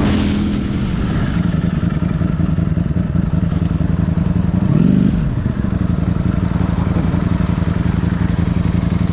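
Ducati motorcycle engine running steadily at low revs, its pitch dropping within the first second as it slows, with one short rev that rises and falls about five seconds in.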